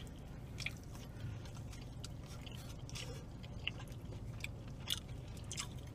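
Faint chewing of a mouthful of pan crust pizza, with scattered soft wet mouth clicks and smacks over a low steady hum.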